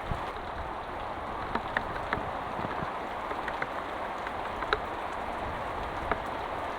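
Heavy rain falling steadily, with scattered sharper drops or drips ticking nearby, one louder than the rest almost five seconds in.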